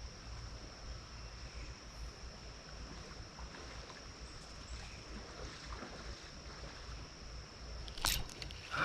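Wind on the microphone and creek water make a low steady rumble, under a constant thin high-pitched whine. About eight seconds in there is one sharp, brief snap or splash.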